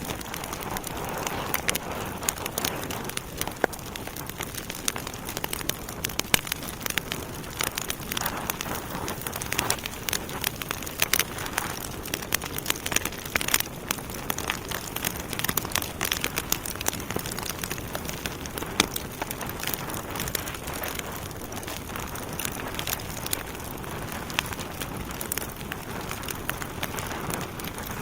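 Wood logs burning in a fireplace: a steady hiss and flutter of flame with many sharp, irregular crackles and pops.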